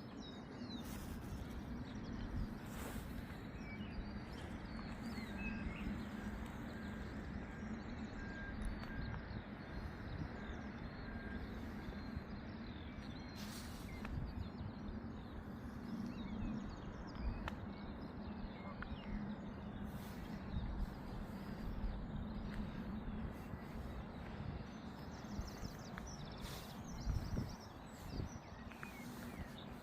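Outdoor walking ambience: a steady low hum under a constant wash of noise, with scattered footsteps and light knocks and faint bird chirps.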